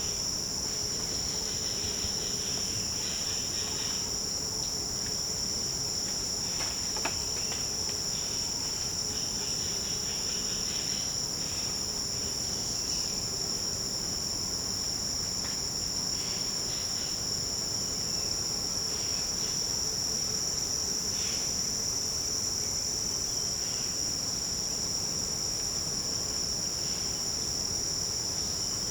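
Forest insect chorus: a steady, dense high-pitched buzzing without a break, with fainter calls coming and going beneath it and a low steady tone underneath.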